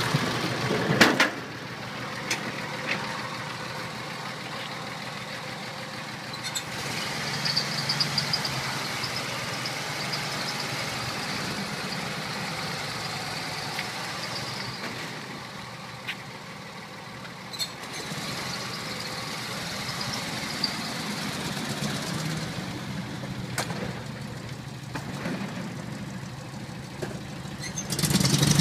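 A 1951 Chevrolet pickup's engine running steadily at idle. There is a sharp loud knock about a second in, and the sound grows louder again near the end.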